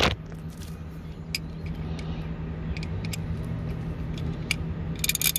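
Hand wrench clicking and tapping against a nut and the subframe brace bolt: a few sharp metal clicks, with a quick rattle of them near the end. A steady low hum runs underneath.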